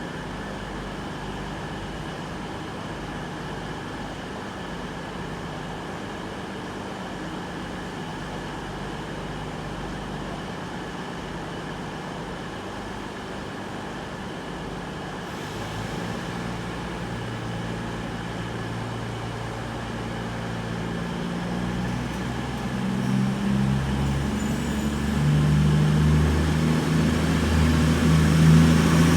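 Class 220 Voyager diesel multiple unit's underfloor diesel engines idling, then powering up and growing steadily louder from about halfway through as the train pulls out.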